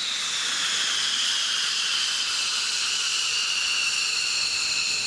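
Jet engine running with a steady hiss and a high whine that slowly falls in pitch.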